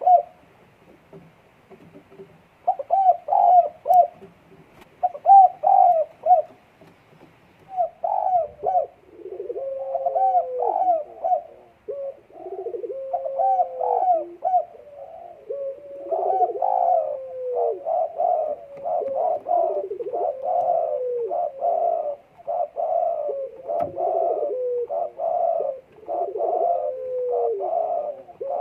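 Puter dekukur dove cooing over and over, a sign that it is in breeding condition. The phrases come in spaced groups at first, then run almost without a break from about halfway through. A lower, falling coo note joins the calls about nine seconds in.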